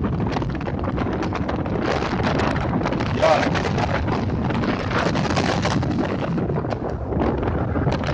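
Wind buffeting the microphone: a steady rushing noise with crackling gusts.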